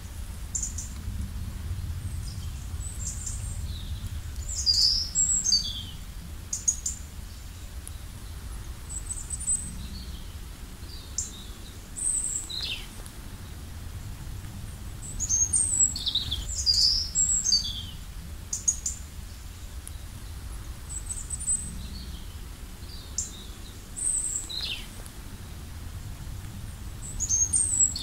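Songbirds chirping and calling outdoors: short high calls and quick falling notes, in clusters every few seconds, over a steady low rumble.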